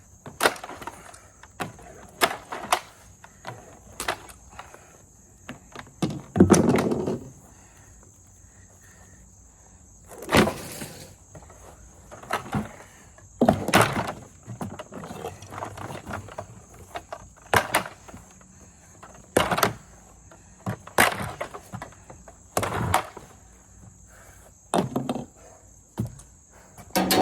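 A plastic vacuum cleaner being struck and smashed again and again: sharp knocks every second or two, some with a short cracking, breaking tail, as it is tested for durability. A steady high insect-like chirr runs underneath.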